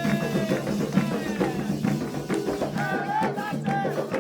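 Candomblé ritual music: drums and percussion playing with voices singing over them.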